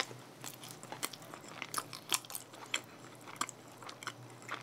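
A person chewing a mouthful of soft glazed green tea doughnut close to the microphone: quiet, irregular wet smacks and small clicks of the mouth, a few each second.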